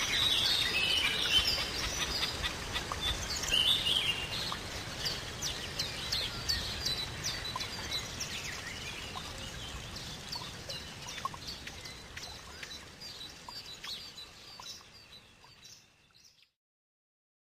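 Small birds chirping and calling in many short, quick notes, gradually fading out and ending in silence near the end.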